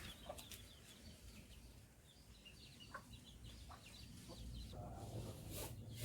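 Faint village ambience: small birds chirping repeatedly and chickens clucking, with a few sharp clicks and a low rumble of breeze.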